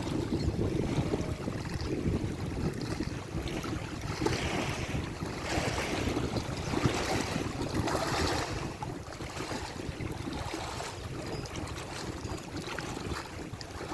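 Wind buffeting the microphone outdoors: a steady low rumble, with rushing noise that swells and fades several times in the middle of the stretch.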